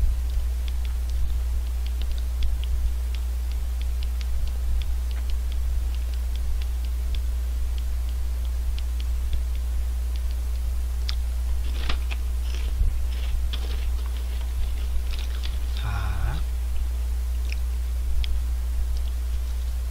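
Close-up chewing and crunching of a potato chip, with louder crunchy bites in the second half and a short murmur near the end. A steady low electrical hum and faint scattered clicks run underneath.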